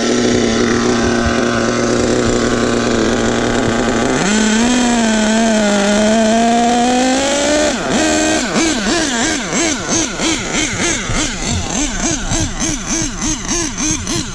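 HPI Savage 25 monster truck's Nitro Star .25 two-stroke nitro engine running at a steady high speed. Its pitch climbs and wavers about four seconds in, then drops. For the second half it revs up and down repeatedly, about twice a second.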